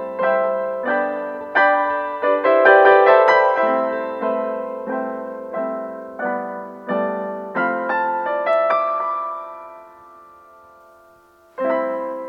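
Background piano music: a gentle melody of struck notes at a slow, even pace, busier for a moment near the start. It fades out about ten seconds in and starts again just before the end.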